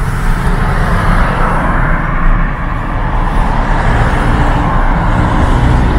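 A car driving, with steady road and engine noise heard from inside the cabin.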